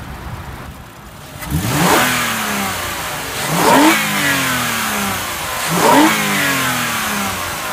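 Lexus ES 350's 3.5-litre V6 engine revved three times in neutral with the hood open, about two seconds apart: each rev climbs quickly and sinks back more slowly toward idle.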